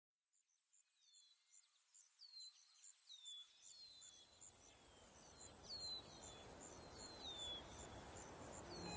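Faint nature ambience fading in: a high insect-like chirping about five times a second, and a bird repeating a short falling whistle. A low hiss builds in from about three and a half seconds in.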